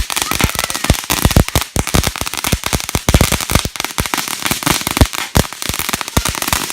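Firecrackers going off in a rapid, unbroken run of sharp bangs, many a second.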